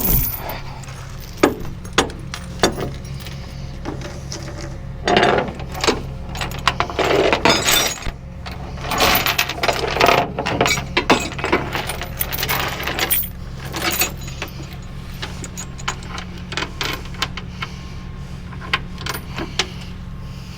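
Metal tie-down hardware (chains, hooks and strap buckles) clinking and rattling irregularly while a car is secured on a rollback tow truck, over a steady low hum of the truck's engine running.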